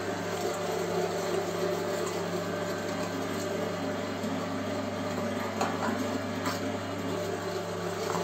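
Electric meat grinder running steadily with a low motor hum while grinding meat into mince, with a few faint clicks. The motor runs very quietly.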